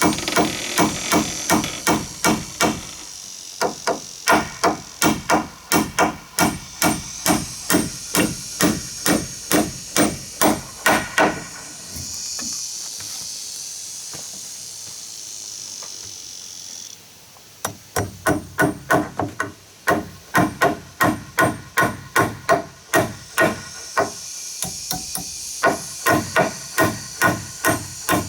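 Hammer blows in quick, even runs of about three strikes a second, stopping for several seconds in the middle before resuming.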